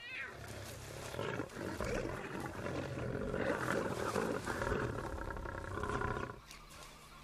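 Lion growling in threat, one continuous rough vocalization lasting about six seconds and dropping off near the end: the pride is agitated because it has a young cub.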